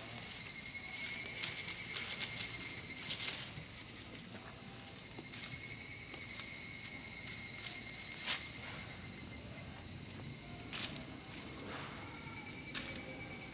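Insects trilling in a steady, high chorus, with a few sharp pops from a campfire, the loudest about eight seconds in.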